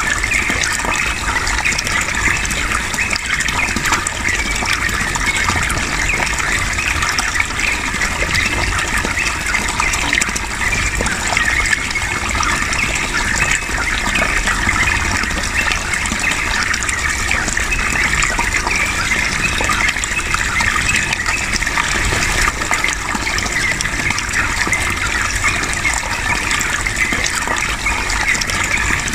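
Yellow-vented bulbul (trucukan) singing long, rolling chattering phrases over a steady rush of flowing water.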